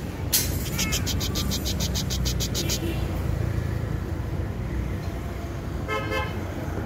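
A bird giving a rapid series of sharp, high notes, about eight a second, for a couple of seconds, then one short harsh call near the end, over a steady low rumble.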